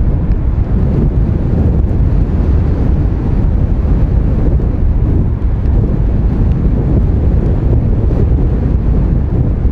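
Strong gusty wind buffeting the microphone, a loud, steady low rumble that masks other sound.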